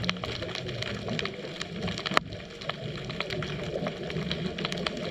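Underwater ambience picked up by a GoPro in its housing on a scuba dive: a steady low rumble with scattered clicks and crackles throughout, and one sharper click about two seconds in.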